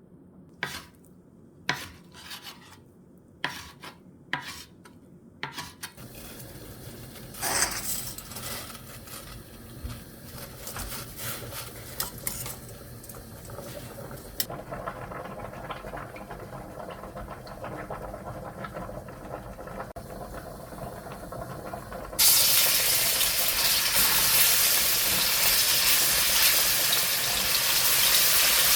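Cooking at a frying pan: a few light utensil clicks, then stirring and clatter of the pan over a low sizzle. About two-thirds of the way in, a loud steady sizzle starts abruptly and keeps going.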